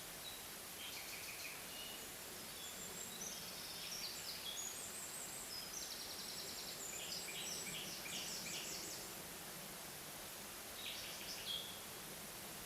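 Songbirds singing: short chirps and trills, busiest in the first nine seconds, with one more short phrase near the end, over a steady faint hiss of forest background.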